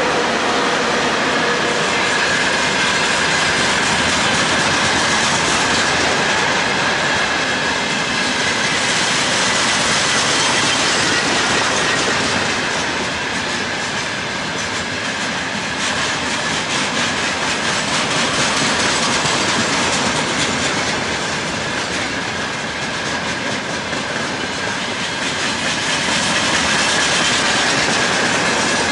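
Freight train of open gondola wagons rolling past close by: steady wheel-on-rail noise with clickety-clack of wheels over the rail joints. A faint, thin high whine from the wheels runs underneath.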